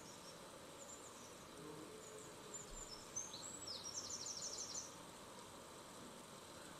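Faint high chirps like a small bird's, ending in a short rapid trill about four seconds in, over a steady background hiss.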